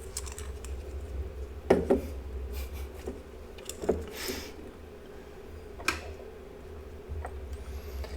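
A few sharp clicks and light knocks of small tools and parts being handled on a workbench, spaced about two seconds apart, with a short hiss near the middle, over a steady low hum.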